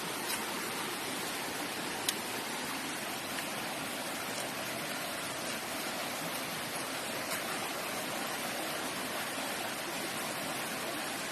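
Steady rushing of flowing water, with two light clicks in the first couple of seconds.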